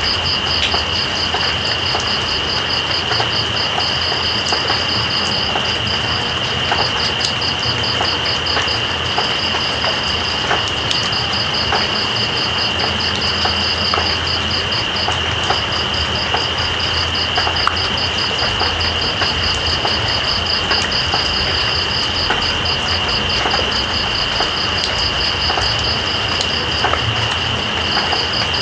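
Steady rain with night insects calling over it: one insect holds a continuous high trill while crickets chirp in rapid pulses, in long runs broken by short gaps.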